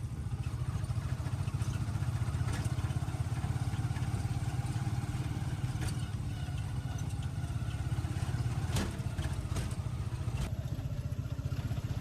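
A motor vehicle's engine running steadily with a fast low pulse, with a couple of sharp clatters about nine seconds in.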